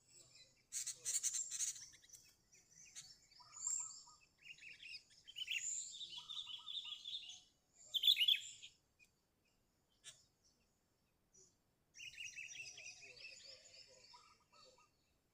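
Sooty-headed bulbul (kutilang) calling loudly in bursts of quick, chattering high notes. A pause of about three seconds follows the loudest phrase, then a long chattering run comes near the end.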